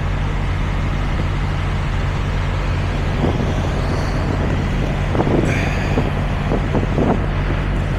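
Semi truck's diesel engine idling with a steady low hum. A few knocks sound in the second half, with a brief squeak about five seconds in.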